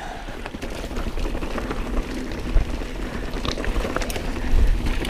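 Mountain bike riding over a rocky trail: rapid clicks and knocks from the tyres and bike on the rocks over a steady low rumble, getting louder near the end.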